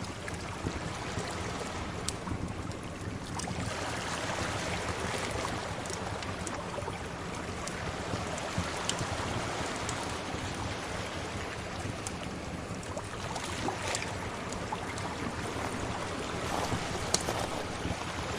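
Sea waves washing, a broad wash that swells a few seconds in and then eases, with the occasional sharp pop and crackle of a wood fire over it.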